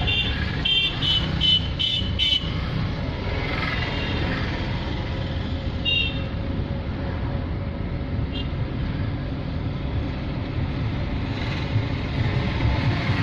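Vehicle engine and road rumble while driving, with a quick run of short horn toots in the first two and a half seconds and single brief toots about six and eight and a half seconds in.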